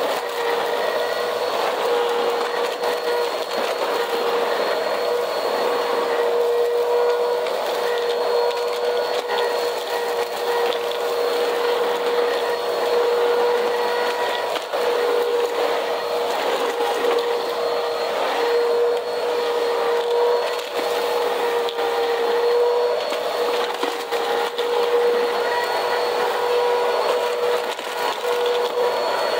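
Vacuum cleaner running steadily over a cement floor, its motor giving a constant whine, with continual crackling and ticking of grit and debris being sucked up.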